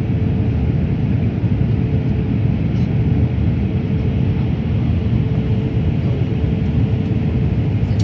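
Airliner cabin noise in flight: a steady, loud low rumble of engines and airflow, with a steady hum running through it.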